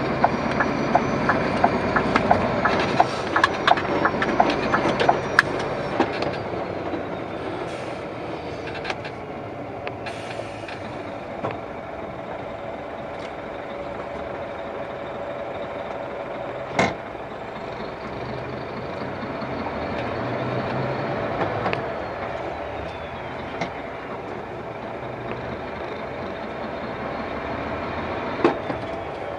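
A lorry driving on the road: steady engine and road noise with rattling, thickest in the first few seconds, and one sharp knock about 17 seconds in.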